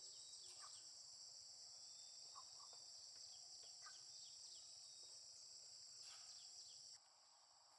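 Faint, steady high-pitched insect chorus, with scattered short bird chirps; the drone drops sharply about seven seconds in.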